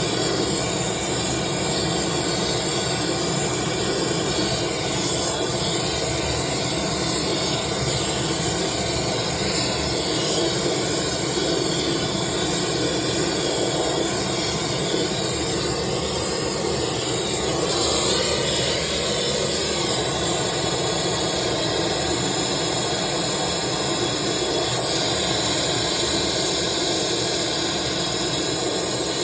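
Oxyacetylene torch flame hissing steadily while brazing a refrigerant line joint at a multi-service valve, with nitrogen flowing through the line.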